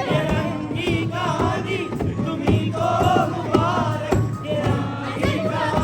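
A crowd of young men chanting and singing together over music with a steady beat.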